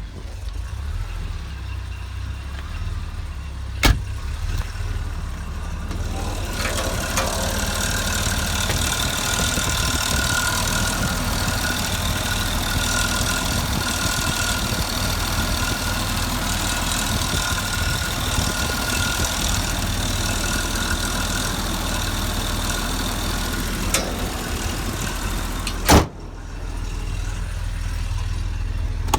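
Jaguar 4.2-litre XK straight-six engine running, with a rattly scraping noise over it that fades out and comes back: a worn timing chain. A sharp click about four seconds in and a loud knock near the end.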